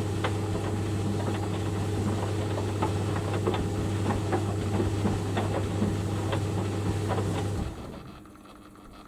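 White Knight 38A compact tumble dryer running with towels tumbling: a steady motor hum with light irregular knocks from the drum. About three-quarters of the way through the motor cuts out suddenly as the reversing dryer stops for its rest pause, heater off, leaving a faint hum.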